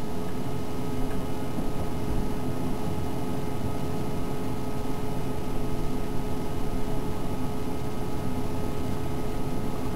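Steady background hum and hiss, with a few constant tones in it and no change from start to end.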